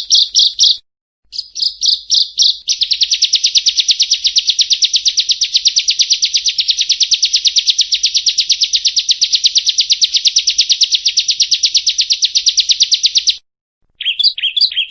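Prinia (perenjak) song: rapid repeated high chip notes, then a long, fast, even trill of about ten seconds that stops abruptly. After a short break it switches to quicker chirps with falling notes.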